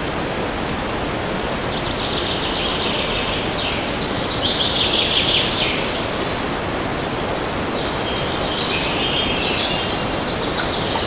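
Steady wind rushing through forest trees, with songbirds singing several phrases of rapid high notes over it, the loudest about four to six seconds in.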